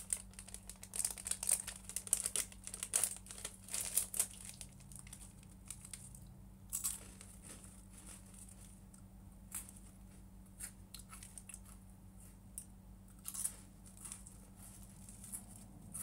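Food packaging being crinkled and torn open by hand: dense crackling for the first four seconds or so, then scattered crackles, over a steady low electrical hum.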